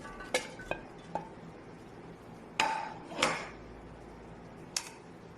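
Kitchen utensils and dishes clinking and knocking, about six separate sharp clinks, the loudest a ringing one about two and a half seconds in, as chopped vegetables are put into a grinder jar.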